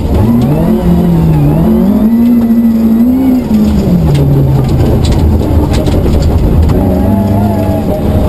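Rally car engine heard from inside the cabin under hard driving. It revs up, holds high, drops back a little over three seconds in, then climbs again near the end.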